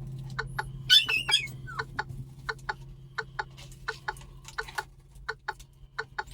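A pet bird gives a short burst of squawking calls about a second in, over a steady low hum and a run of quick, irregular clicks.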